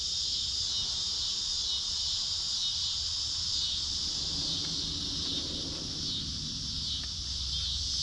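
Steady chorus of insects shrilling without a break, with a faint low drone swelling briefly around the middle.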